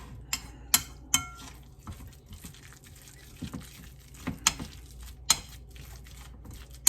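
A utensil stirring a moist tuna and mayonnaise filling in a bowl, with sharp clinks against the bowl a few times in the first second or so and again around four to five seconds in.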